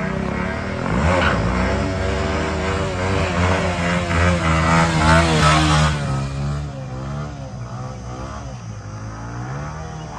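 Motorcycle engine revving, its pitch rising and falling over and over. It is loudest about five seconds in, then fades away.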